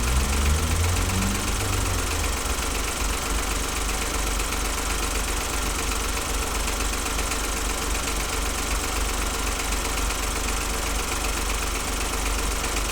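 2008 Smart ForTwo's 1-litre three-cylinder engine idling steadily with an intermittent misfire, a 'fish bite' misfire in which the running pulses now and then.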